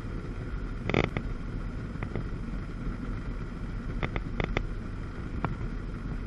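1997 Sea-Doo GTS's 720 two-stroke twin engine running steadily under wind and water noise, with several short sharp knocks about a second in, around four seconds in, and near the end.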